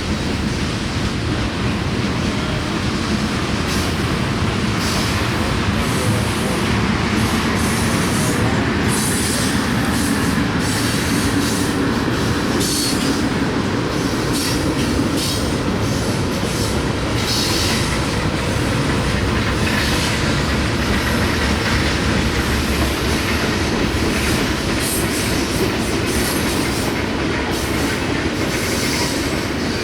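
Freight train cars rolling past in a steady, loud rumble, with the wheels clicking and scraping on the rails throughout.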